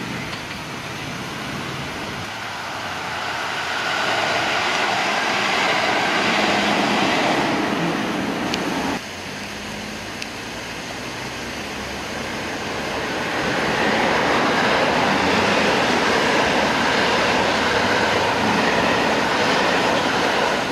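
Electric trains running on the line: a JR West 223 series train approaching, its wheel and motor noise growing louder until it stops suddenly about nine seconds in, then a 287 series express train approaching and passing close by, growing louder and staying loud near the end.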